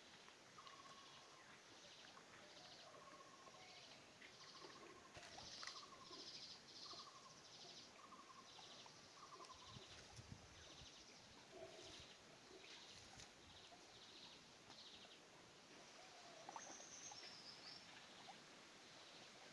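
Faint birds calling: a short note repeated about once a second through the first half, over higher buzzy chirping, with a high falling whistle near the end.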